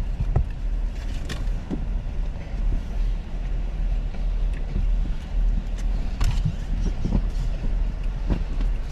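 Steady low vehicle rumble, with scattered light clicks and knocks over it.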